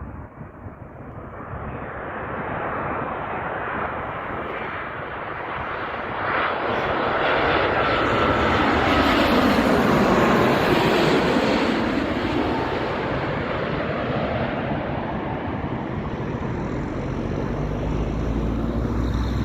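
Boeing 787-9 jetliner passing by with its engines running: a jet rush that builds to a peak about ten seconds in and then eases off, with a whine that falls in pitch as it goes past.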